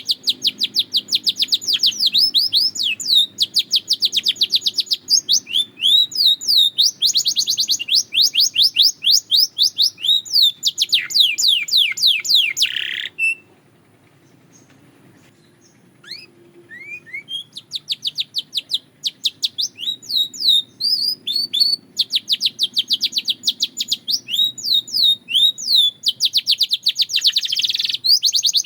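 Belgian canary singing long, rapid trills of quickly repeated sweeping notes. It stops for about three seconds midway, then starts again with a few separate notes before going back into fast trills.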